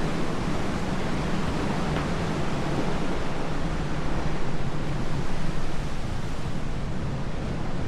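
Steady rushing wind with a heavy, uneven low rumble.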